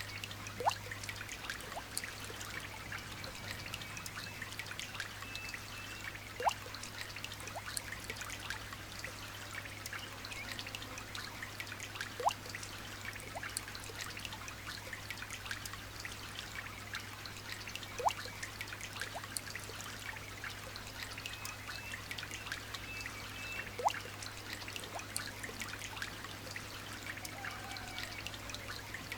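Light rain pattering with water trickling and dripping, many small drop ticks over a steady wash. A louder single drip plinks about every six seconds, five times. A faint steady low hum runs underneath.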